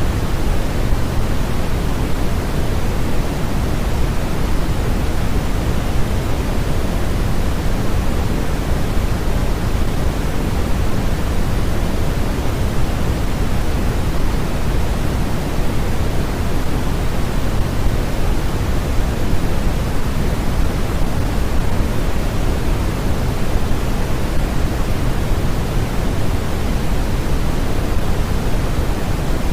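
Steady generated white-noise track: a constant, even hiss that is fuller in the low end than in the highs, with no breaks or changes.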